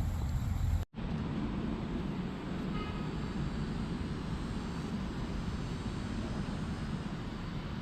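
Steady low rumbling outdoor noise, broken by a brief dropout about a second in.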